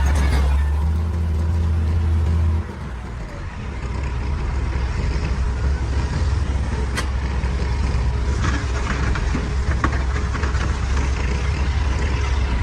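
Excavator's diesel engine running heavily; its deep hum drops away suddenly about two and a half seconds in, then builds back up and runs steadily. A few sharp clanks and knocks come through later, one about halfway through and several more shortly after.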